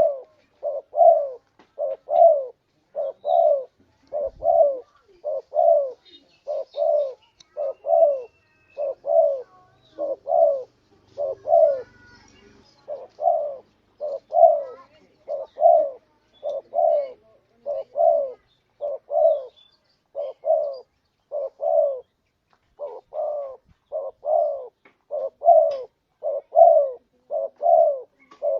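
Spotted dove (tekukur) cooing: a steady run of short, low coo notes, about two a second, with a brief pause near the end.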